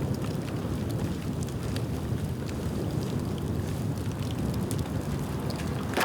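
Dry bamboo burning in an open bonfire: a steady low rumble of flames with scattered small crackles, and a louder sharp pop near the end.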